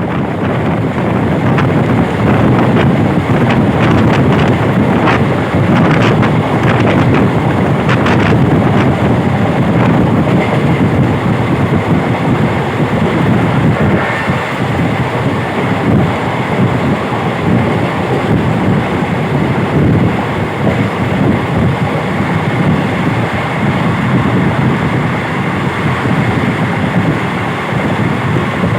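Moving train's running noise mixed with heavy wind on the microphone, with a run of sharp clicks over the first eight seconds or so.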